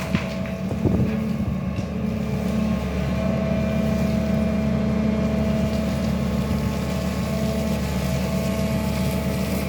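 SANY excavator's diesel engine running steadily, with a thin steady tone above the engine hum and a single knock about a second in.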